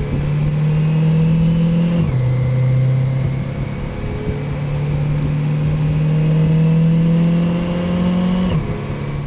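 ProCharger-supercharged C8 Corvette LT2 V8 running on a chassis dyno, the engine note dropping sharply at an upshift about two seconds in, then climbing slowly and steadily before dropping again at another shift near the end. A thin high supercharger whine rises and falls in step with the engine.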